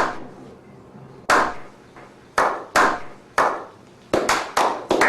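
Slow hand clapping: single sharp claps about a second apart at first, quickening to several a second near the end.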